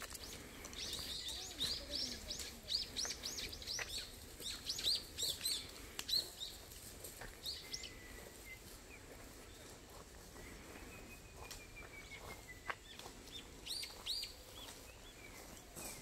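Wild birds chirping: a quick run of short, high chirps through the first half, then quieter with a thin drawn-out whistle, and another brief burst of chirps near the end.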